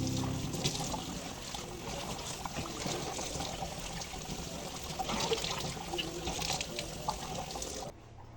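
Water running from a tap, with scattered light clinks and knocks as items are washed at a sink. The water stops abruptly near the end.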